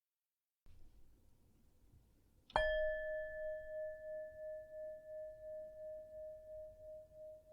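A meditation bell is struck once, about two and a half seconds in, and rings on as one clear tone with a slow wavering pulse, fading gradually. It is the first of three rings that close the meditation.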